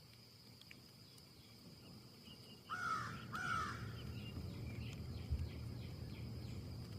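A bird calls twice, about half a second apart, roughly three seconds in. Behind it a faint steady high whine continues and a low wind rumble picks up.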